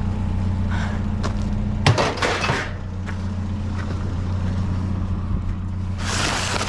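Steady low hum of an idling engine, with a sharp metallic clank about two seconds in, followed by rustling as trash is rummaged through, and more rustling near the end.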